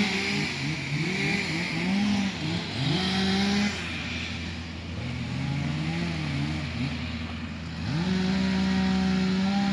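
A car running while it is driven slowly, heard from inside: its hum rises and falls in pitch again and again for the first few seconds, goes quieter for a while, then holds one steady pitch from about eight seconds in.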